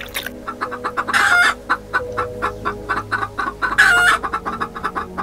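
Hen clucking in a quick run of short clucks, with two louder, drawn-out squawks, one about a second in and one about four seconds in.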